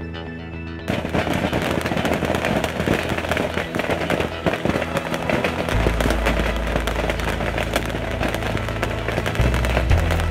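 A dense barrage of bottle rockets and firecrackers popping and crackling nonstop, starting suddenly about a second in. Background music plays underneath.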